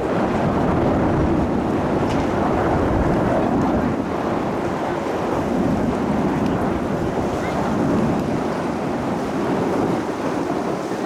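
Jet noise from the Frecce Tricolori's Aermacchi MB-339 PAN aircraft: a steady, deep rumbling roar that swells slightly now and then.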